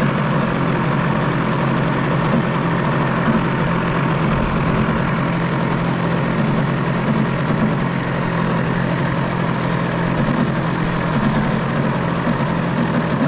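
Radio-controlled model airplane's piston engine idling steadily at close range, holding one speed without revving.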